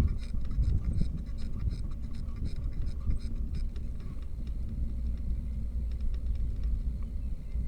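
Low rumble of wind and road noise from a bicycle ride, with frequent small clicks and rattles that thin out about halfway through.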